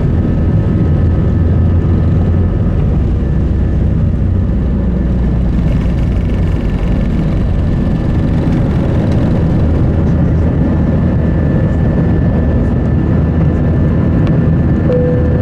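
Airbus A320-200 cabin noise with the engines running: a steady low rumble with faint steady tones above it.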